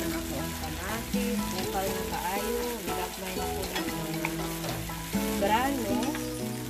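Diced tomatoes and onions sizzling in a hot frying pan, stirred with a wooden spatula, with melodic background music playing over it.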